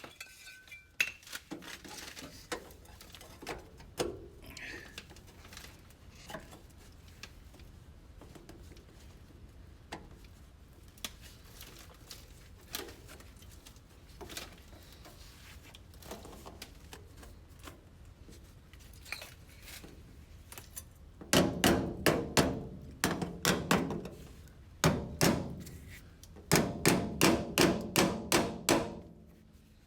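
Hammer striking sheet metal in three quick runs of blows, about three a second, each blow ringing briefly. Scattered lighter clicks and knocks come before them.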